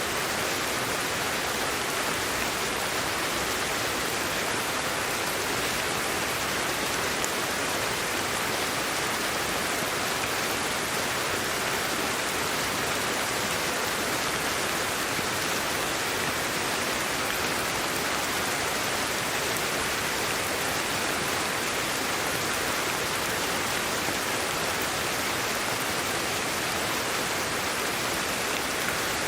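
Steady, unchanging hiss of sleep-aid white noise, thin in the bass, with no breaks or changes.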